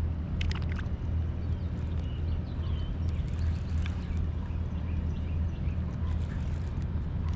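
Boat motor running with a steady low hum, while small birds chirp in the middle seconds and a few light clicks come near the start.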